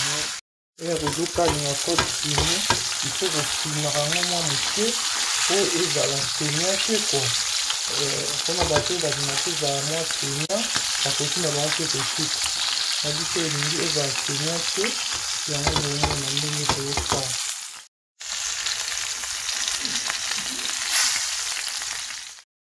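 Food frying in hot oil in a pan, a steady sizzle with a low wavering tone beneath it for most of the time. The sound cuts out briefly twice.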